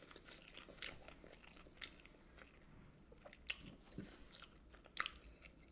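A person chewing fast food close to the microphone, with a handful of short, sharp mouth clicks spread through.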